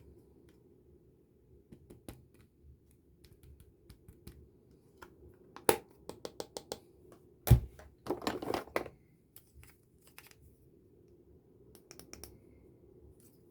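Makeup-kit pieces being handled: scattered clicks and taps, a quick run of clicks around the middle, then a loud knock and a short rustling scrape, with a few more clicks near the end.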